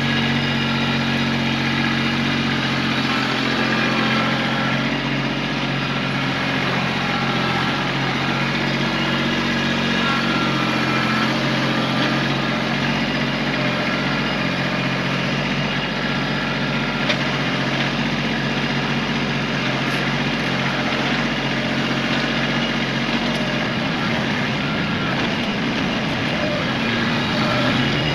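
Kubota tractor's diesel engine running steadily, its low note changing about 23 seconds in.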